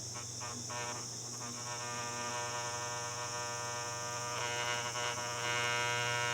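Electric soldering tool buzzing with a steady mains hum while it heats a solder joint on the fan motor's wires; the buzz gets brighter about four seconds in.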